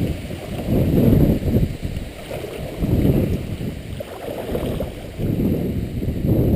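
Low rumbling wind and water noise on a kayak, swelling and easing every second or two.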